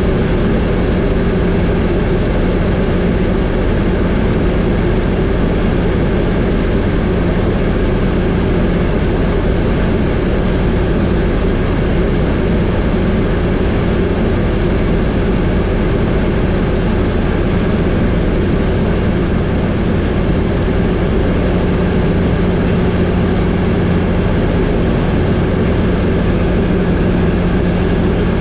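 Helicopter in flight: steady, loud engine and rotor noise with a held low hum.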